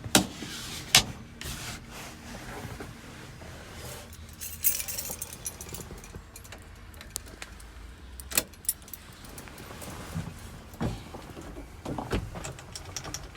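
Scattered clicks and knocks of handling inside a truck cab, with a jingle of keys about four to five seconds in.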